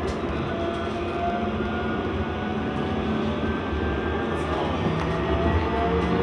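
Inside a C Class tram running between stops: a steady rumble of wheels on rail with a low hum and a few faint clicks in the second half.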